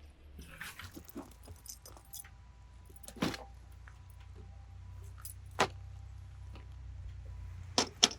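Scattered sharp metallic clinks and knocks over a low steady rumble, ending in three quick clicks.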